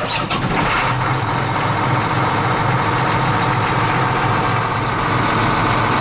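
Small engine running steadily at an even speed, with a low pulsing note under a wide band of mechanical noise.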